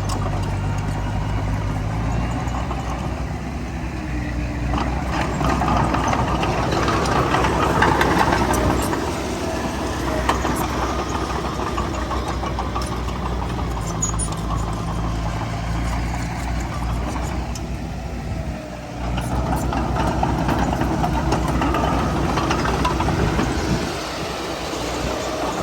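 Heavy diesel earthmoving machinery running steadily, its engine note swelling twice as it works harder, with light clanking over it.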